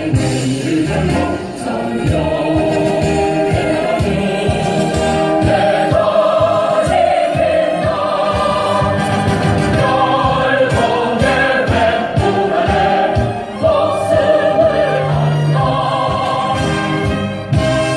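Recorded music of a choir singing, played for the crowd.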